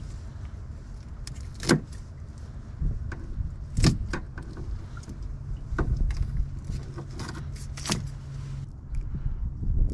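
A small boat motor hums steadily and fades near the end. Four sharp knocks come roughly two seconds apart.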